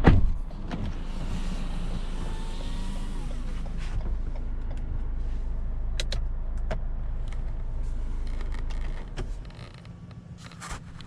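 Lexus RX 200t's 2.0 L turbocharged four-cylinder (8AR-FTS) idling with a steady low hum, opened by a sharp thump, with several sharp clicks through the idle. The engine hum drops away about nine seconds in.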